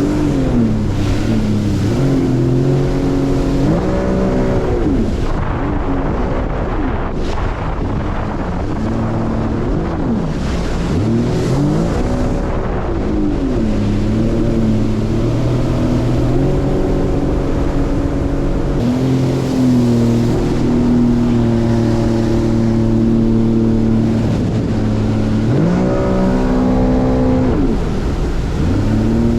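Watercraft engine running at speed. Its pitch holds steady, then several times rises and falls in quick swells, over a rush of wind and water.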